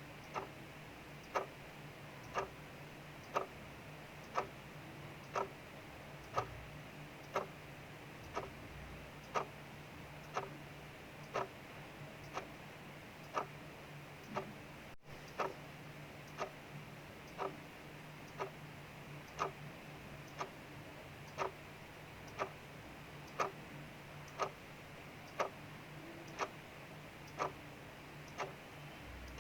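Mechanical clock ticking steadily about once a second, the ticks alternating slightly in strength, over a steady hiss of rain falling outside.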